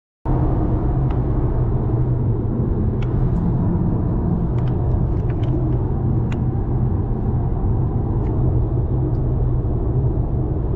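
Car driving at steady speed: a constant low rumble of engine and road noise, with a few faint light ticks.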